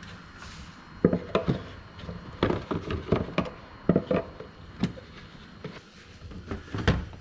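Hard objects being handled and set down: a dozen or so irregular knocks and clunks, with a loud pair just after a second in and another near the end.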